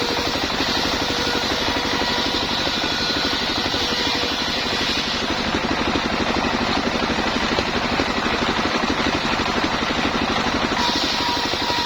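Engine of a homemade sawmill running steadily at a constant speed, with a high whine over it that fades about five seconds in and comes back near the end.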